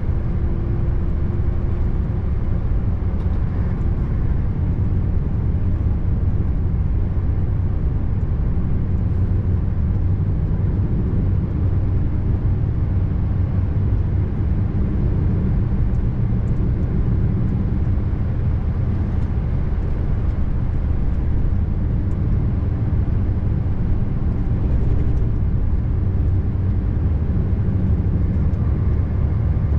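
Scania R590 V8 truck rolling down a steep hill, a steady low drone of engine, drivetrain and road noise with no change in pitch.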